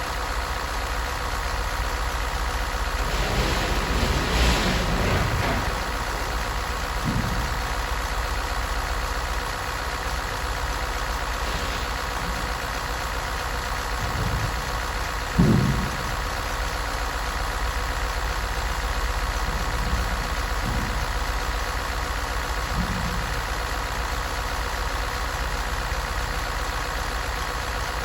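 LaCrosse engine idling steadily under test, with a few brief low thumps along the way, the loudest about fifteen seconds in.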